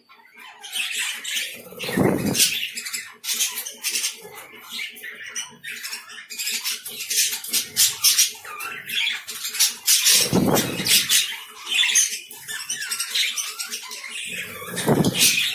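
Lovebirds chirping and squawking in a rapid, continuous chatter, with three dull bumps among the calls.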